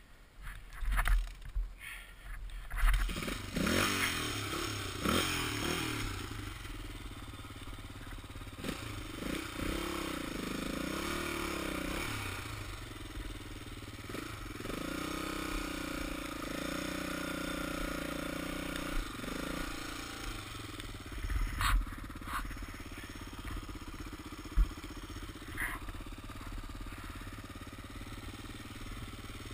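Dirt bike engine running under way, heard from the rider's helmet, its pitch rising and falling with the throttle. Loud thumps fill the first few seconds, and a few sharp knocks come about three-quarters of the way through.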